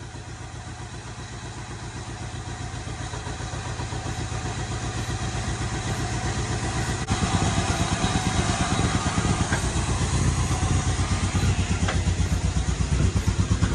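The 5.3-litre LS V8 swapped into a 1968 GMC Suburban running at a steady idle, its exhaust pulsing evenly and getting gradually louder, with a step up about halfway. The engine is still prone to backfiring.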